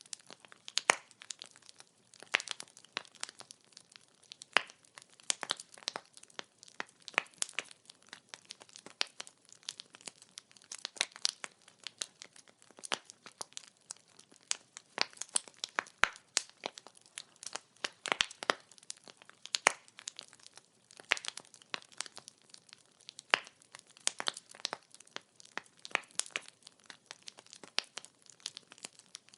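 Burning firewood crackling: dense, irregular sharp pops and snaps over a faint hiss.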